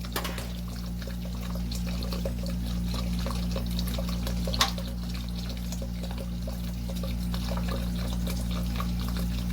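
Water steadily pouring and trickling as an electric water heater tank drains through a funnel, under a steady low hum. A sharper click comes about four and a half seconds in.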